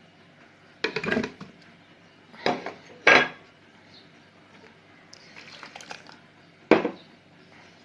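Bowls and utensils clattering and clinking against a blender jar as chopped vegetables and sauces are tipped in: a handful of separate knocks and clinks, the sharpest near the end.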